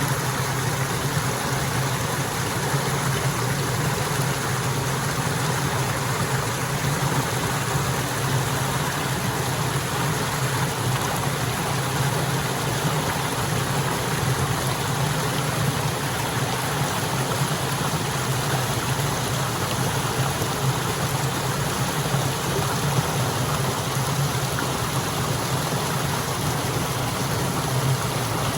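A stream flowing with a steady, unbroken rush of water.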